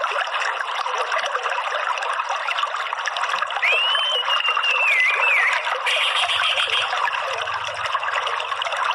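Running water trickling steadily, with an orange-headed thrush giving one whistled phrase in the middle that rises, holds a high note and dips at the end.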